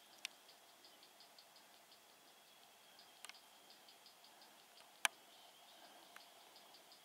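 Faint insects chirping in a fast, even pulse, about five chirps a second, over a thin high steady buzz. A few sharp clicks break in, the loudest about five seconds in.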